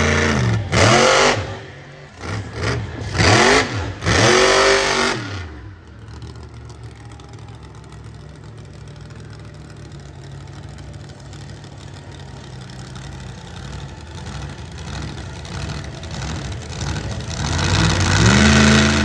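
Monster truck engine revving hard in several quick bursts, pitch rising and falling, then running lower and steadier for about ten seconds before revving up loudly again near the end.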